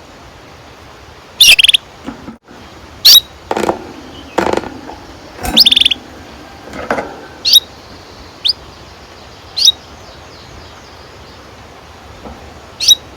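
Domestic canary giving short, sharp chirps and rising call notes, one every second or two with gaps between, rather than a continuous roll.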